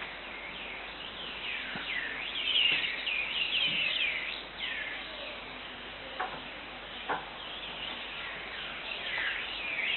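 Birds chirping: quick falling chirps in busy flurries, thickest a couple of seconds in and again near the end, with two faint clicks in between.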